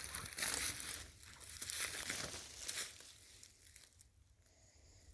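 Footsteps crunching through dry fallen leaves on the forest floor, an irregular series of crunches that fade away about three seconds in.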